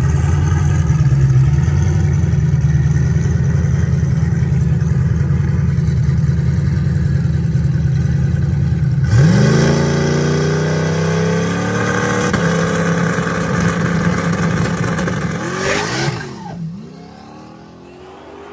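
Drag car engine at high revs: a steady drone for about nine seconds, then the pitch climbs, with a step to a lower note about three seconds later, like a gear change. Near the end the sound drops away and fades.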